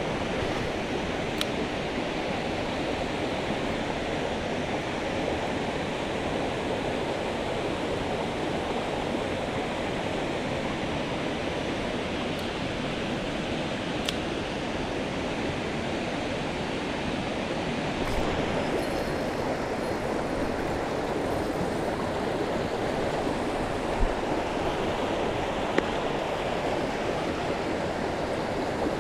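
Mountain headwater stream flowing steadily, with a few short clicks and knocks, two of them sharp near the end.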